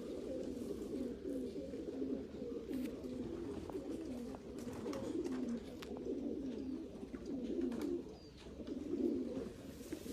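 Racing pigeons cooing in a loft, several birds at once in a steady, overlapping chorus.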